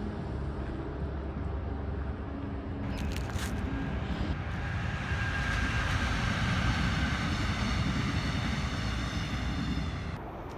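A KORAIL electric locomotive hauling passenger coaches passes by: a steady rumble of wheels on rail that grows louder, is loudest about two-thirds of the way through, and cuts off suddenly near the end.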